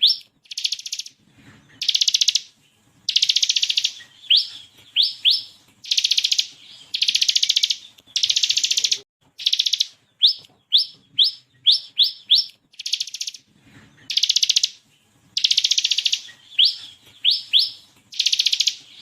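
Bar-winged prinia (ciblek) singing in full song. Runs of quick rising whistled notes (the 'tembakan' shots) alternate with dense, rapid trills about a second long (the 'ngebren' rattle).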